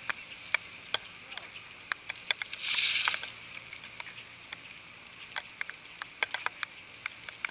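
Rain and wet snow falling, with drops ticking irregularly and sharply on the camera over a steady faint hiss. A brief louder hiss comes about three seconds in.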